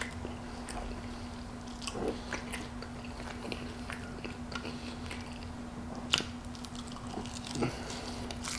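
Close-miked chewing of mouthfuls of cheese-and-bacon-topped fries (Wendy's Baconator fries), with scattered light clicks and a faint steady hum underneath.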